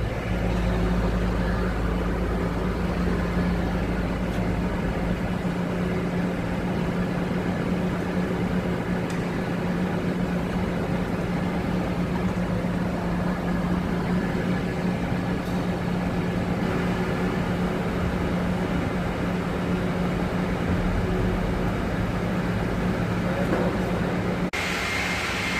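Machinery running steadily with a constant low hum under a noisy mechanical wash. About a second before the end the sound changes abruptly to a hissier one.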